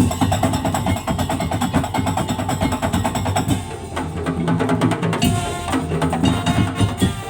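Madurese tong-tong (daul) ensemble playing: a fast, dense beat on wooden slit drums and drums, with pitched melodic percussion over it.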